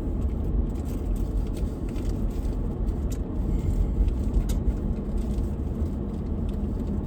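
A car being driven, heard from inside: a steady low rumble of road, tyre and engine noise, with a few faint ticks.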